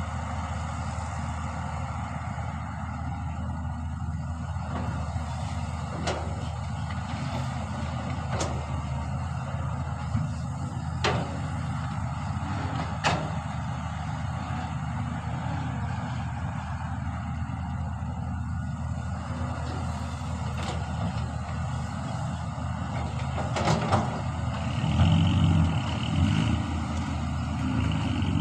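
Heavy diesel engine running steadily, with a sharp metallic clank every few seconds; the engine grows louder near the end.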